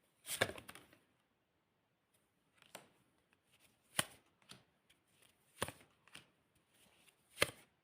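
Tarot cards being handled and laid on a table: about seven separate soft slaps and rustles spaced a second or so apart, the sharpest about four seconds in and near the end.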